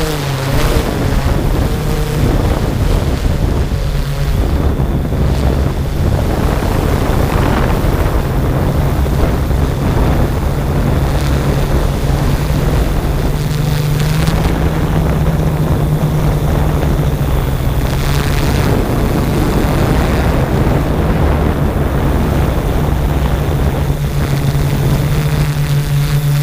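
Drone propellers humming at a steady pitch, under heavy wind noise on the microphone.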